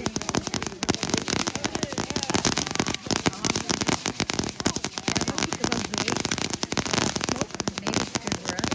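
Fireworks crackling in a dense, rapid barrage of pops, with voices of onlookers murmuring underneath.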